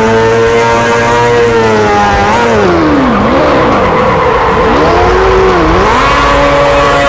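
Motorcycle engine held at high, steady revs. In the middle the throttle drops and reopens twice, so the pitch swoops down and back up before settling steady again.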